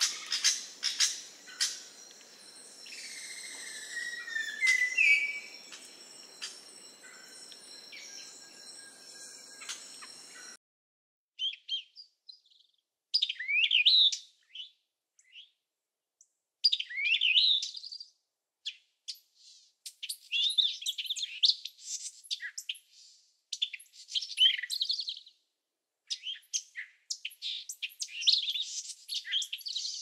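Birds chirping and trilling in short bursts. About a third of the way in, the faint background ambience cuts off abruptly, and the chirps then come in separate bursts with dead silence between.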